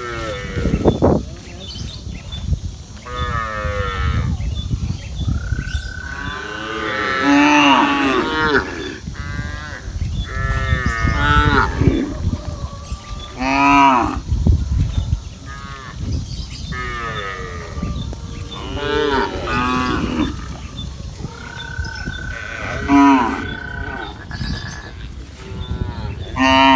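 A herd of cattle mooing again and again, several calls overlapping one another, with a low rumble underneath.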